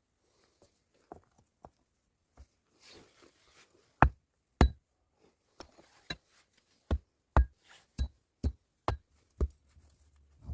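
Faint rustling, then about ten sharp, hard knocks, roughly two a second, starting about four seconds in. Some knocks carry a brief high ring.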